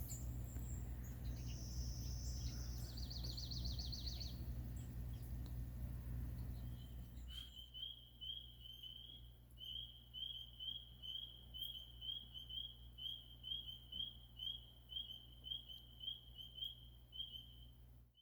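Outdoor ambience with birds calling: a couple of quick high trills in the first few seconds over a low rumble, then a steady run of short chirps at one pitch, about two or three a second.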